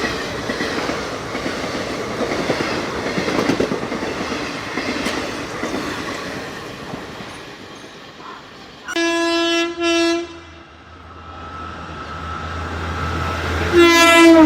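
Wheels of a passing train clattering over the rail joints, fading away; then two short horn blasts from an Indian Railways locomotive about nine seconds in. A low hum grows louder after that, and another horn blast starts near the end.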